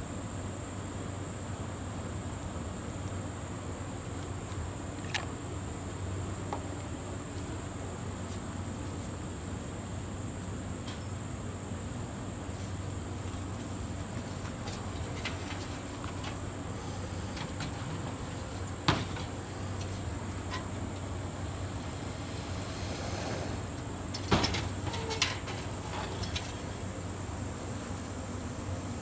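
Steady high-pitched insect drone over a low hum, with a few sharp clicks or knocks: one about a third of the way in, a louder one past the middle, and the loudest two close together near the end.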